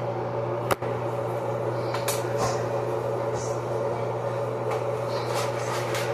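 Steady electric fan hum, with a few sharp snaps near the start and about two seconds in as dry spaghetti is broken into the pot.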